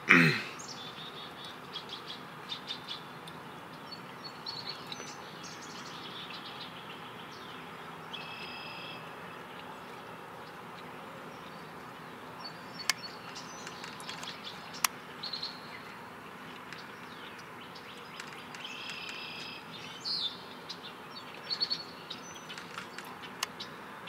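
Birds chirping and calling now and then over a steady outdoor hiss; one call, with several pitches sounding together, comes twice, about ten seconds apart. A brief loud falling sound opens the stretch, and two sharp clicks come about two seconds apart near the middle.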